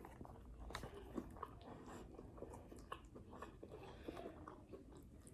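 Faint chewing of a mouthful of food, with scattered small clicks.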